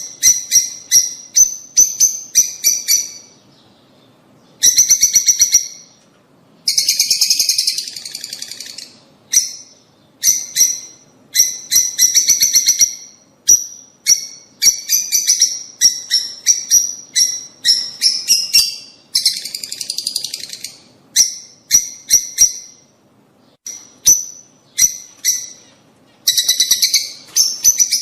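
Lovebirds calling: runs of sharp, high-pitched chirps with short pauses between them, and a denser, harsher chattering stretch about seven seconds in.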